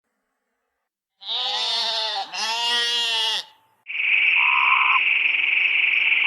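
Two drawn-out animal calls, each about a second long and bending in pitch, followed about four seconds in by a steady, high, buzzing animal call.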